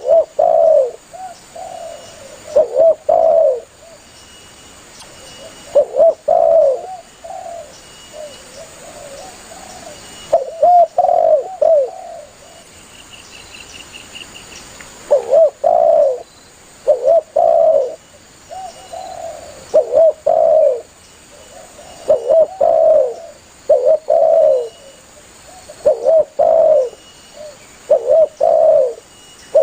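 Spotted dove (tekukur) cooing: short phrases of low coos repeated in groups of two or three, with pauses of a few seconds between groups.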